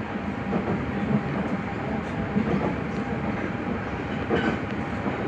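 Nagoya subway 5050-series train running at speed between stations, heard from inside the car: steady wheel-on-rail rumble and running noise, with occasional clicks of wheels over rail joints.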